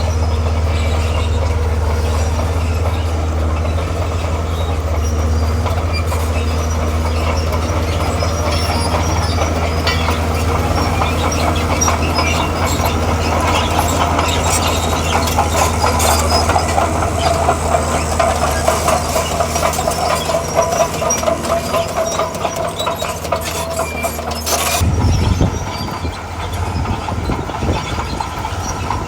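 Heavy tracked diesel machine working, its engine drone steady under the clatter of steel crawler tracks. A squeal builds through the middle. Near the end there is a sharp knock, and the engine note changes.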